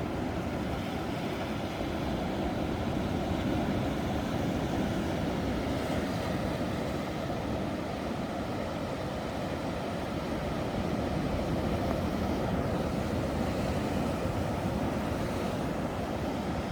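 Ocean waves breaking in continuous surf: a steady, deep rushing noise that swells gently a couple of times.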